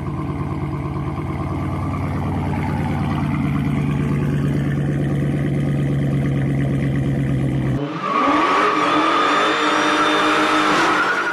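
V8 muscle car exhaust running at steady, slowly climbing revs. About eight seconds in it cuts abruptly to the engine accelerating, its pitch rising under a steady high whine.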